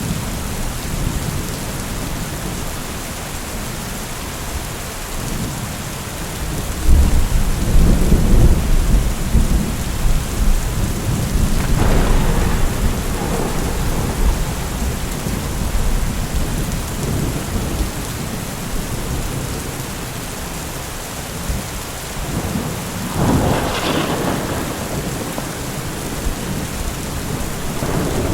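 Steady heavy rain with thunder. A deep rumble rolls in about seven seconds in and fades over several seconds, and sharper cracks of thunder come around the middle and again near the end.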